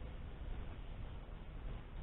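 Steady outdoor background noise, deepest and strongest in the low range, with no distinct event.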